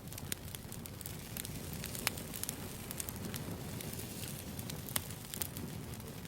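Campfire crackling: a steady low rumble of burning wood with frequent sharp pops and snaps, two louder pops about two and five seconds in.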